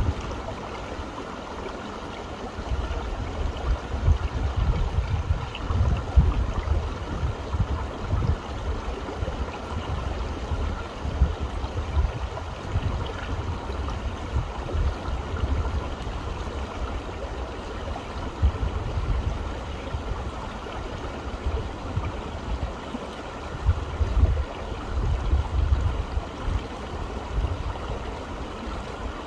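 Running water from a stream: a steady rush with irregular deep swells that come and go.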